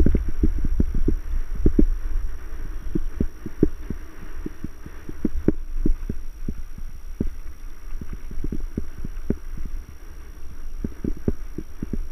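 Mountain bike on a rough trail: irregular dull thumps and knocks, several a second, over a steady low rumble.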